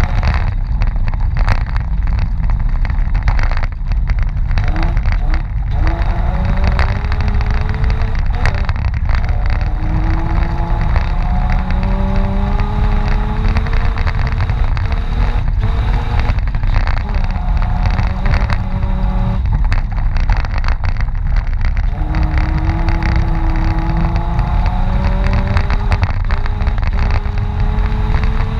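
Mitsubishi Pajero off-road rally car driving hard: the engine rises in pitch again and again as it accelerates and shifts through the gears, over a heavy steady rumble with scattered knocks from the rough track.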